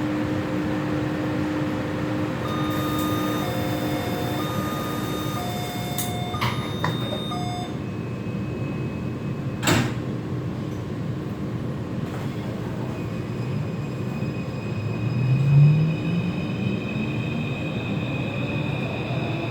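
A Taipei Metro C341 train at a platform: a series of short electronic beeps, then the doors slide shut with a thud about ten seconds in. Near the end the traction motors start with a rising whine as the train pulls away.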